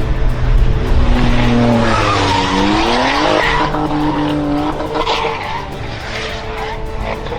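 Car tyres skidding on the road while an engine's pitch rises about two seconds in.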